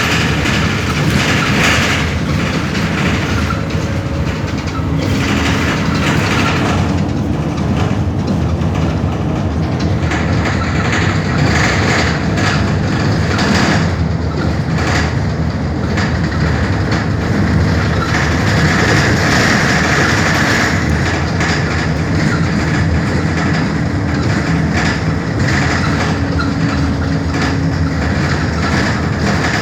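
MAN Lion's City city bus under way, a steady low engine hum with rolling and rattling road noise heard from inside the bus.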